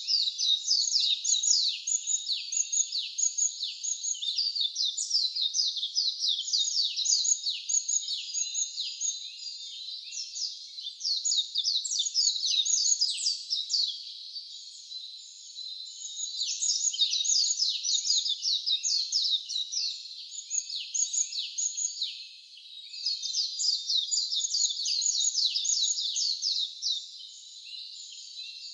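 A dense chorus of high-pitched chirps: rapid short notes, each falling in pitch, overlapping continuously and easing off briefly a few times.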